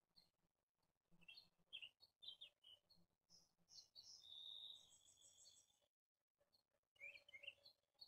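Faint chirps and short calls of small birds, with one longer, steady high note in the middle. The sound drops out briefly just after it, then a few more chirps come near the end.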